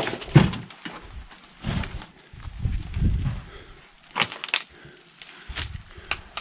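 Footsteps over rough ground strewn with stones and dry twigs: irregular crunches, snaps and knocks, a few sharper cracks about four seconds in.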